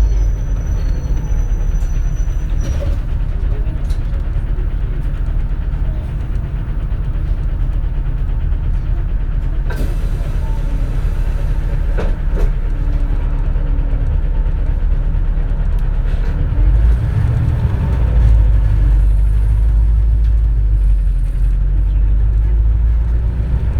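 Inside a 2004 compressed-natural-gas city bus on the move: a steady, loud low rumble from the engine and drivetrain, with a few rattles and knocks from the body. About two-thirds of the way through, the rumble swells louder as the bus pulls harder.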